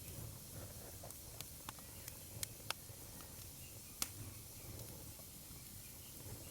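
Wood fire crackling: irregular sharp pops and snaps, the loudest about four seconds in, over a low steady rumble and a faint hiss.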